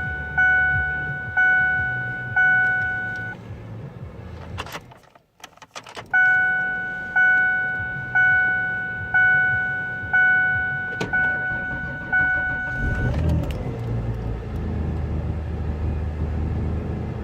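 1996 Ford Explorer's dashboard warning chime dinging about once a second, stopping briefly among a few sharp clicks, then dinging again. About thirteen seconds in, the 4.0-litre V6 starts in the cold and settles into a steady idle.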